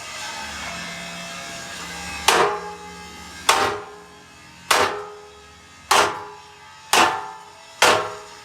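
A hammer striking metal six times, about a second apart, each blow ringing out and fading. Before the first blow there is a steady background noise with a low hum.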